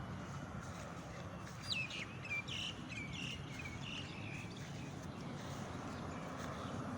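A bird calling a quick series of about seven short, falling chirps for a couple of seconds, over a steady outdoor background hum.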